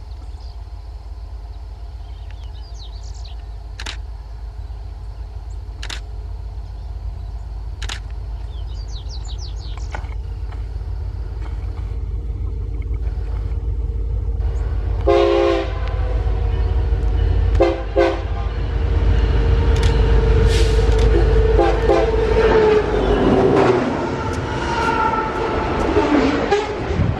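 A train approaching, its locomotive's low rumble growing steadily louder. About halfway the locomotive horn sounds a loud blast, then several shorter toots, and the horn tone drops in pitch as the locomotive passes near the end.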